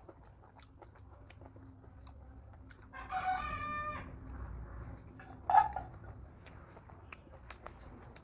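A rooster crows once, for about a second, about three seconds in. A short, sharp, loud sound follows a couple of seconds later, with small clicks scattered throughout.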